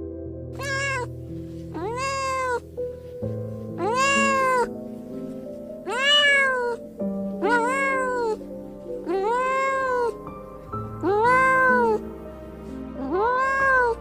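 A cat meowing repeatedly: about eight meows roughly two seconds apart, each rising then falling in pitch, over background music.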